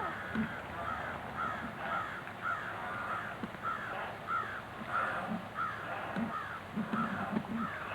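A bird calling over and over, short calls repeating about twice a second.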